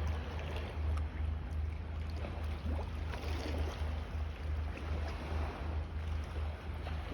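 Water lapping and splashing, with a few brief swells, over a steady low rumble.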